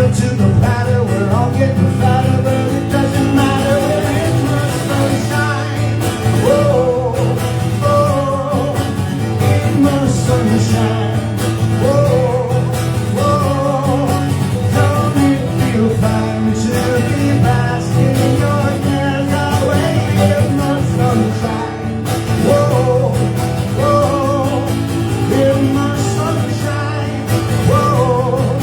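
Live singing with guitar accompaniment, an upbeat country-pop song played straight through.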